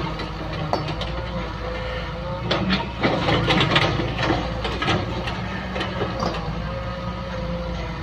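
Excavator's diesel engine running steadily with a faint whine over it, and a cluster of clanks and scrapes about two and a half to four seconds in as it works the ground.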